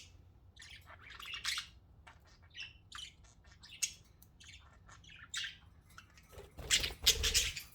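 Pet budgerigars chirping and chattering in short, scattered high calls, with a louder rustling burst near the end.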